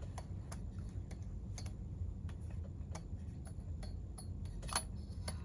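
Scattered light clicks and ticks of small metal parts and tools being handled during chainsaw reassembly, one or two a second, with a slightly louder click near the end, over a steady low hum.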